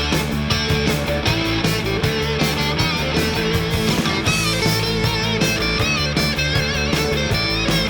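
Punk rock band recording, with distorted electric guitars, bass and drums playing at a steady beat.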